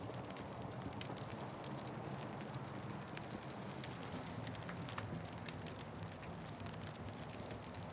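Wood fire crackling: a steady low hiss and rush of burning with many small, sharp pops and snaps scattered irregularly throughout.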